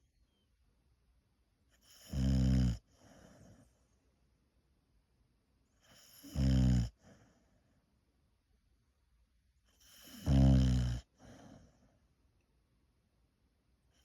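A boxer dog snoring in her sleep: three loud, low, rattling snores about four seconds apart, each followed by a fainter breath, with another snore starting at the very end.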